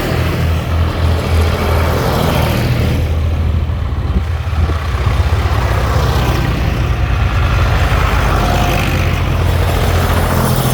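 Tractor engines running as tractors drive past, a steady low engine note with swells of noise as each one passes.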